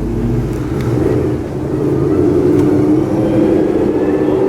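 Ford Mustang GT's V8 engine and exhaust running steadily while the car rolls at low speed, a low drone whose pitch shifts slightly.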